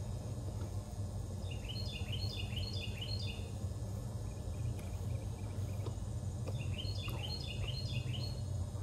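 A songbird sings two phrases, each a quick run of short high chirping notes stepping up and down, about a second and a half in and again near the end. Under it runs a steady low outdoor background rumble.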